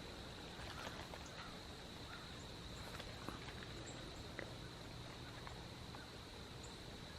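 Faint quiet outdoor ambience: a steady, thin high-pitched drone like distant insects, with a few soft ticks.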